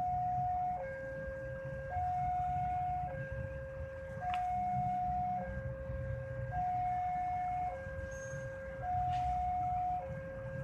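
Railway level crossing warning alarm sounding a two-tone electronic signal, alternating a higher and a lower note about every second, over a low rumble. The alarm warns that a train is approaching the crossing.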